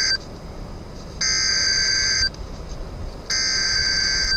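NOAA Weather Radio alert data bursts: three harsh electronic buzzes of about a second each, spaced about a second apart. They are the digital header that comes before a new tornado warning message.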